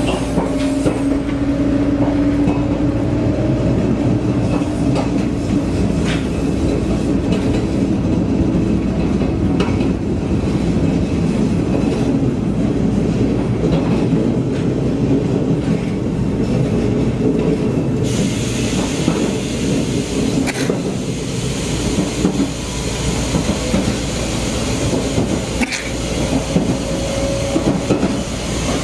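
JNR 381 series tilting electric train running at speed, heard from inside the car: a steady rumble of wheels on rail with scattered clicks of rail joints. A faint steady whine fades out in the first few seconds, and about two-thirds through the sound turns brighter and hissier.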